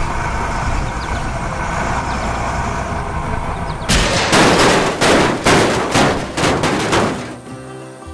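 Sound effects from a construction-vehicle cartoon: a steady heavy-machine rumble, then a rapid series of loud bangs and crashes lasting about three seconds, about four seconds in.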